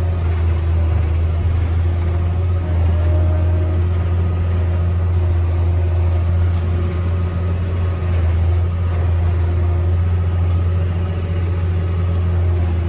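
Tractor engine running steadily under load, a deep even hum with no change in speed.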